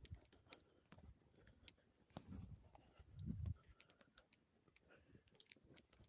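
Faint footsteps of a person walking over the ground: a few soft thumps among scattered small clicks and crackles, otherwise near silence.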